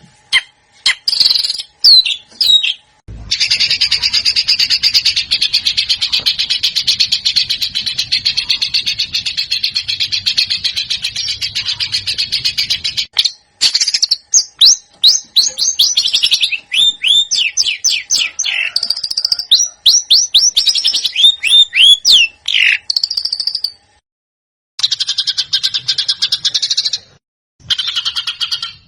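Recorded songbird song cut together from separate clips: a long, dense, fast chattering trill, then rapid runs of sharp down-sweeping whistled notes, with abrupt cuts and short gaps between the clips.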